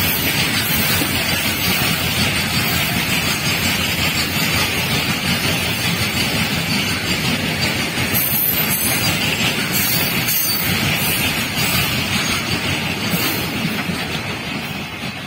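Goods train of open-top box wagons passing close by, its steel wheels rumbling and clattering on the rails, with a few louder clanks. The sound fades over the last couple of seconds as the end of the train goes by.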